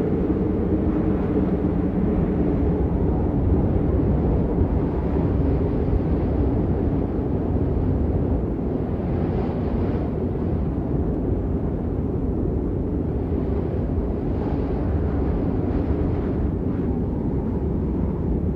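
Steady rain falling, an even deep hiss without any break or rhythm.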